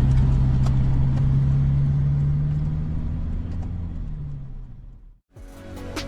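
Car engine running with a steady low hum and a few light clicks, fading out about five seconds in. Music starts just before the end.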